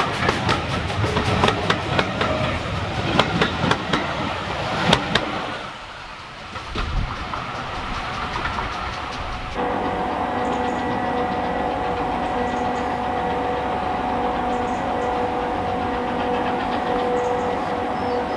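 Heritage railway train running: a rapid series of clicks over the rumble for the first five seconds or so, a brief quieter spell, then from about halfway a steady running noise with a few held tones.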